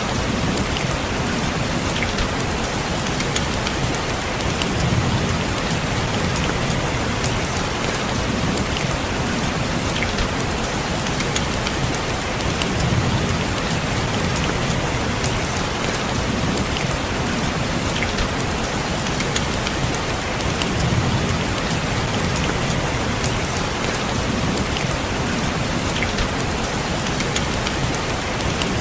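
Steady rain falling on a window, an even hiss with sharp ticks of single drops. A low swell rises and fades about every eight seconds.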